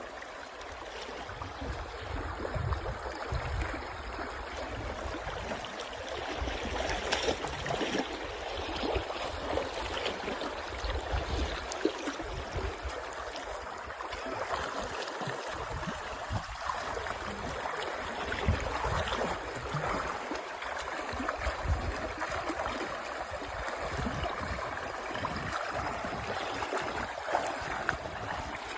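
Water flowing steadily, a constant rushing, with irregular low rumbles and small knocks now and then.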